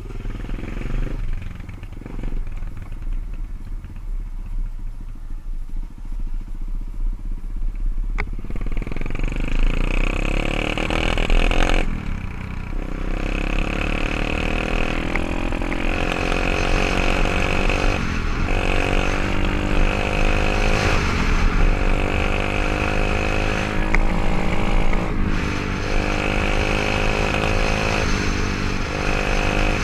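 124cc single-cylinder pit bike engine running, low and quiet at first, then louder from about eight seconds in, its pitch dropping and climbing again every few seconds.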